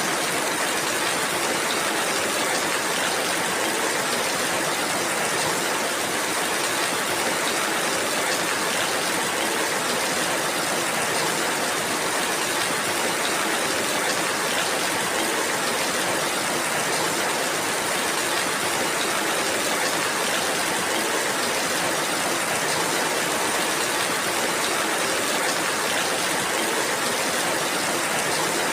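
Steady rainfall: an even, unchanging hiss with no single drops or other events standing out.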